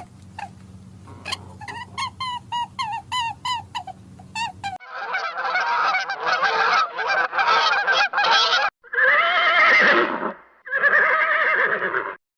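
Geese honking: a run of loud, harsh calls in quick bursts, with short gaps, cutting off suddenly near the end. Before the honking, for the first few seconds, a series of short, quieter high calls repeats about three times a second over a low hum.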